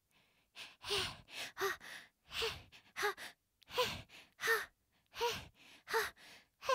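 A young voice sobbing: a run of short breathy gasps, about two a second, many ending in a brief whimper.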